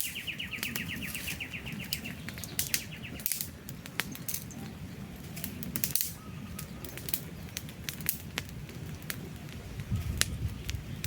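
Wood fire crackling, with irregular sharp pops and snaps over the low rush of the flames. A bird's rapid trill runs through the first second or so.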